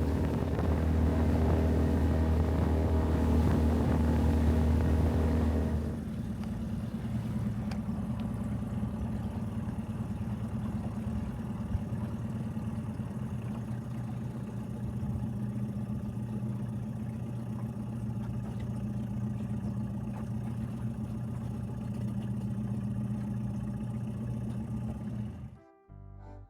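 A skiff's outboard motor running steadily under way. About six seconds in, the sound steps down to a quieter, lower drone, and it cuts off near the end.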